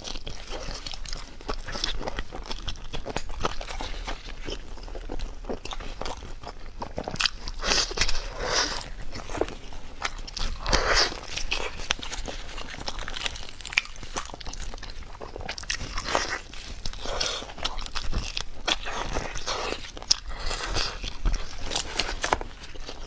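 A person chewing and biting into braised pig trotter, with many quick clicks and short crunchy bursts of mouth sounds.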